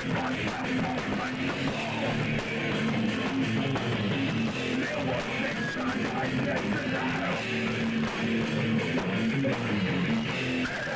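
Punk rock band playing live, with electric guitar to the fore.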